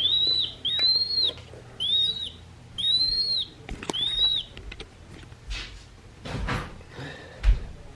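Recorded piping plover call played from a Wild Republic plush bird's sound chip: five clear, arched whistles about a second apart, then soft handling rustles near the end.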